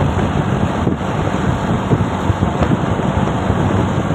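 Wind buffeting the microphone over the steady rumble of a vehicle on the move.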